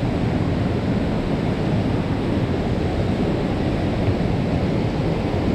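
A waterfall's steady rush of falling water, a dense even noise heaviest in the low range.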